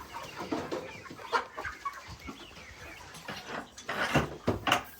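Free-range chickens clucking, a scattered run of short clucks with a few louder calls about a second and a half in and again near the end.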